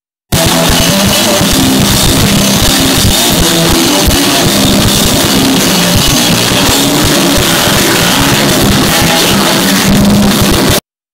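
Hardcore punk band playing live and loud: distorted electric guitars, bass and drum kit. The music starts abruptly about a third of a second in and cuts off suddenly near the end.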